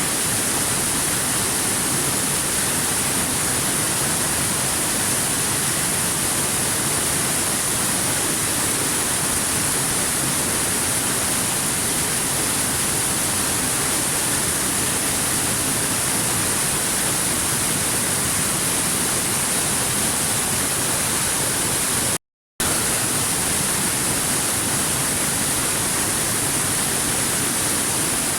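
Steady, even rushing of a waterfall, unchanging throughout, with a brief cut to total silence about 22 seconds in.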